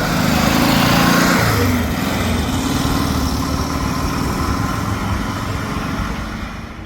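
A vehicle engine running. It is loudest about a second in, drops in pitch as it goes by, then carries on steadily and fades near the end.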